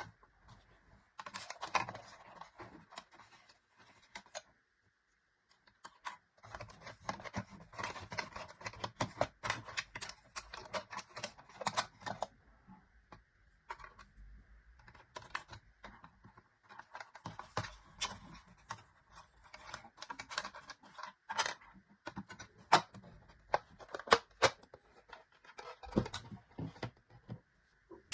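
Irregular runs of small clicks, taps and scratches from handling miniature plastic toy kitchen pieces and their packaging, with a short pause about four seconds in.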